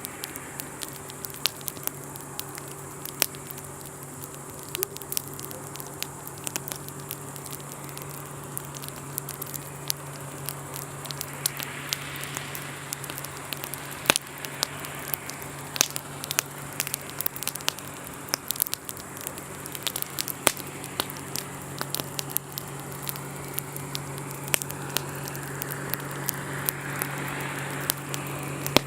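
Wood campfire crackling, with frequent sharp pops over a soft hiss that swells twice. A steady low hum runs underneath.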